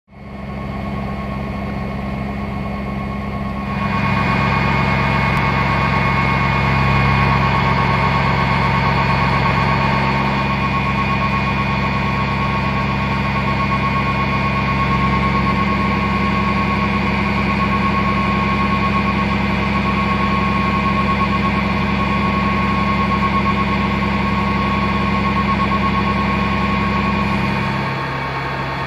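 Fire trucks' diesel engines idling: a steady engine hum with a constant whine above it. It grows louder about four seconds in and eases slightly near the end.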